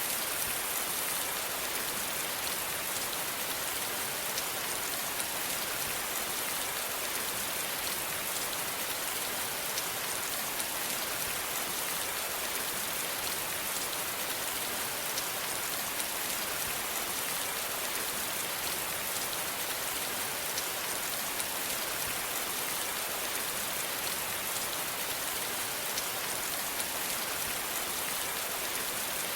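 Steady rain falling, an even hiss of many fine drops on a surface, unchanging throughout.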